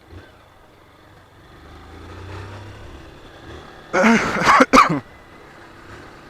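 A man clears his throat twice, short and loud, about four seconds in, over a faint engine hum that swells a little about two seconds in.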